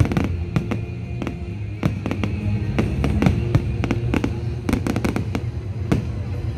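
Fireworks display: many sharp bangs and crackles from bursting shells going off in quick, irregular succession, with music playing underneath.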